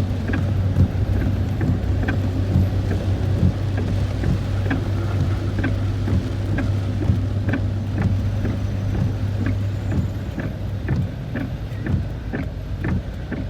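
Noise inside a car driving in the rain: a steady low engine and road drone, with irregular ticks of raindrops hitting the car. The drone eases about eleven seconds in.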